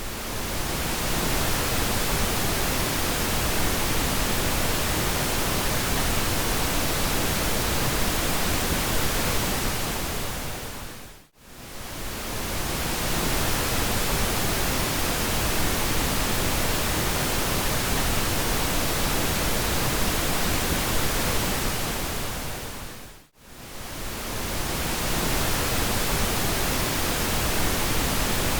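Pink noise: a steady, even hiss that briefly fades to near silence and swells back twice, about 11 and 23 seconds in.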